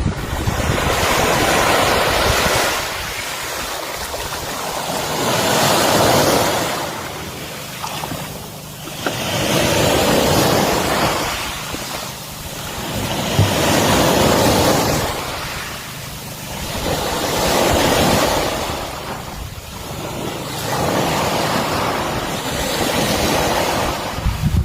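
Surf: waves washing in and ebbing away, swelling about every four seconds, with some wind on the microphone.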